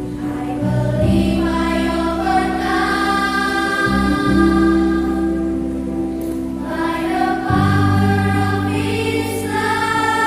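Elementary school children's choir singing a slow song in sustained, drawn-out notes, over accompaniment holding low notes that change a few times.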